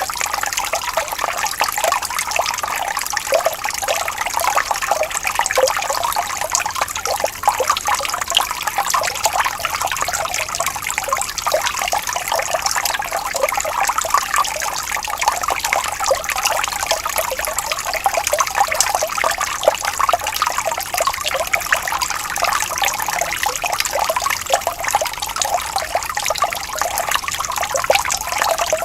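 Shallow water trickling and burbling steadily, with many small splashes and gurgles.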